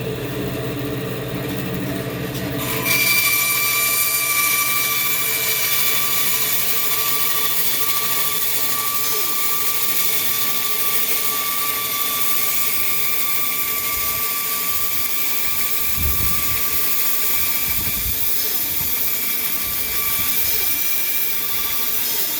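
Band saw running with a wet/dry shop vacuum drawing from its dust port. About three seconds in, the sound jumps to a louder, steady hiss with a high whine, which fits the blade starting to cut through a 2x4.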